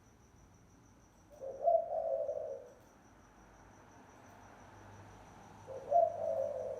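Spotted dove cooing: two hoarse coo phrases, one about a second and a half in and one near the end, over a faint steady high cricket trill.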